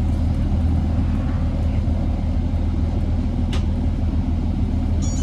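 A 2008 Orion VII NG hybrid bus with a Cummins ISB diesel and BAE HybriDrive running at a steady low drone, heard from inside the bus. A single sharp click or rattle about three and a half seconds in.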